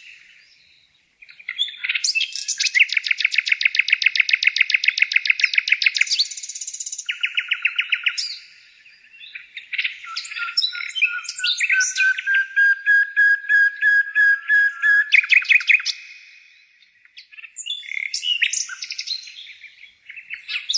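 Bird song: rapid chirps and fast trills of about ten notes a second, broken by short pauses, with a long, slowly rising whistled note in the middle.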